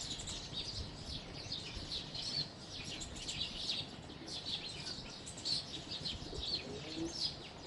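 Sparrows chirping: a steady chatter of short, rapid chirps from several birds overlapping.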